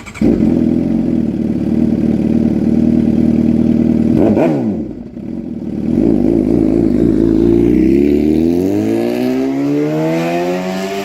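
Suzuki GSX-R 750 inline-four engine running loud through a catless header and M4 slip-on exhaust. It comes in suddenly, holds a fairly steady note, briefly drops and falls in pitch about four seconds in, then rises steadily in pitch over the last few seconds as the bike accelerates.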